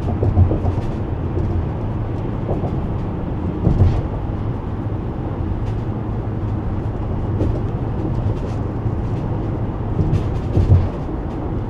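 Steady engine and road rumble heard from inside a van's cabin while driving, with light rattles here and there from loose things shaking in the back.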